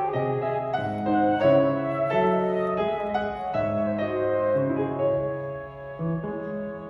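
Classical piano playing a flowing passage of notes, getting quieter toward the end.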